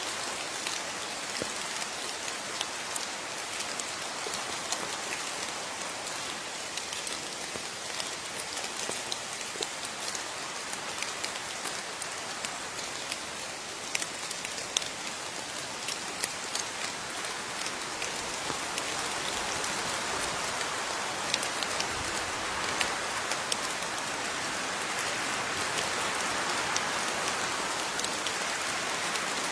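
Steady rain falling, with many separate drops ticking sharply on a surface over a continuous hiss; the rain grows a little heavier in the second half.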